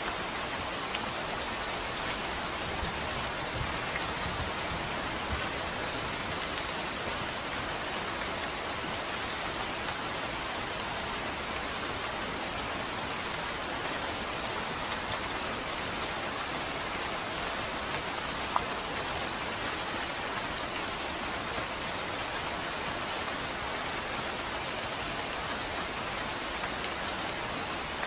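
Steady rain falling and pattering on a surface, an even hiss with scattered drop ticks and one sharper drop about two-thirds of the way through.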